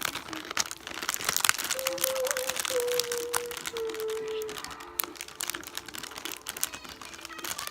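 Close-up ASMR crunching of Takis and Hot Cheetos with crinkling of the snack bags: a dense, rapid run of sharp crackles.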